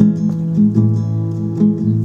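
Acoustic guitar played in a steady, repeating picked pattern, the instrumental opening of a song before the singing comes in.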